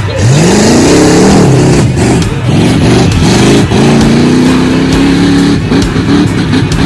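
Big truck engine revving hard, its pitch climbing and dropping several times, holding steadier for a moment about four seconds in, then wavering again.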